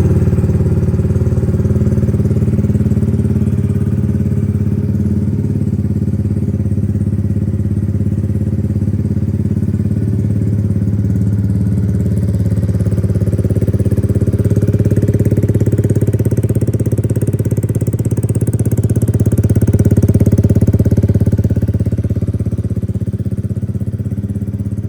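A Yamaha MT-125's 125 cc single-cylinder four-stroke engine idling steadily through an aftermarket Mivv exhaust.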